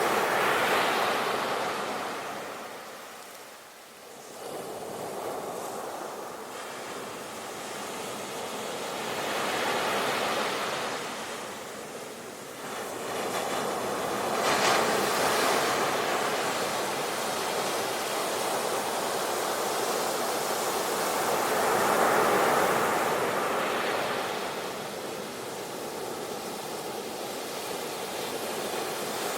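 Ocean surf: waves breaking and washing in, the rushing hiss swelling and easing in several surges, with a brief lull about four seconds in.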